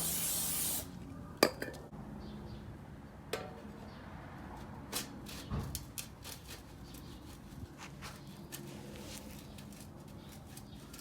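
A short burst of aerosol spray hissing for under a second, then a sharp click and scattered light clinks of metal tools and parts.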